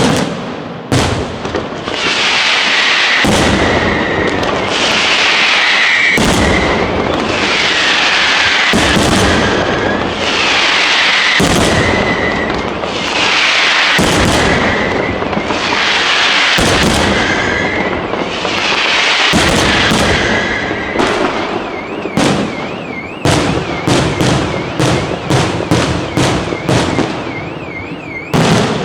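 Aerial fireworks display: shells go off about every two and a half seconds, each with a long hissing, crackling burst and falling whistles. Near the end this turns into a quick run of sharp reports with a warbling whistle over them.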